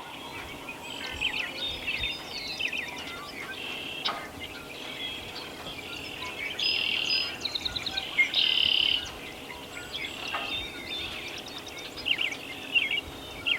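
Songbirds singing at dawn: several birds chirping and trilling over one another, with the loudest buzzy trills about seven and nine seconds in. No turkey gobbles in answer to the owl hoots.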